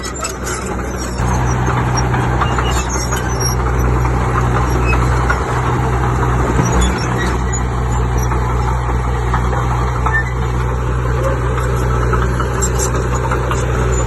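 Diesel engine of heavy earthmoving machinery running steadily, picking up load and growing louder about a second in.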